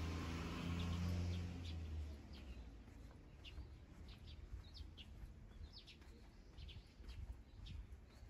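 Small birds chirping: short, high calls repeated irregularly. A vehicle's low rumble fades away over the first two seconds.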